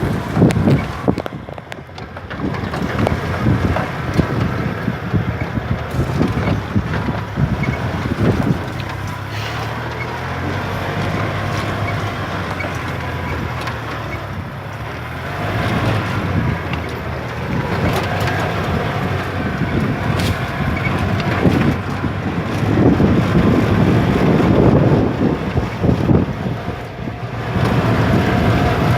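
Golf cart driving over a dirt track: its motor runs and changes pitch as it speeds up and slows, with heavy wind buffeting on the microphone and scattered knocks and rattles from the bumps.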